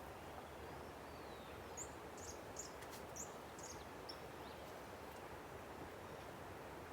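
River rushing steadily, with a bird giving a quick run of short high chirps between about two and four seconds in.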